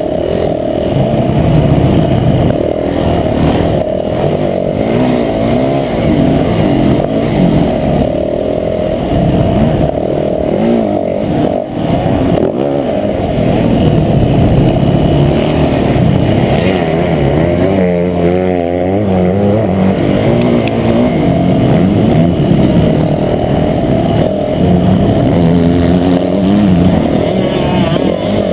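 Motocross bike engine repeatedly revving up and falling back as it is ridden around the track, sounding muffled, with a quick wavering of pitch about two-thirds of the way through.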